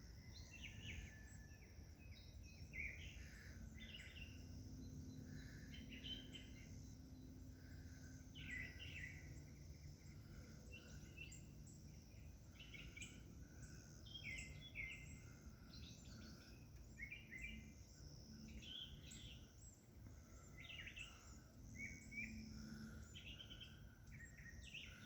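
Faint wild birds chirping and calling in short, scattered phrases, over a low steady background noise.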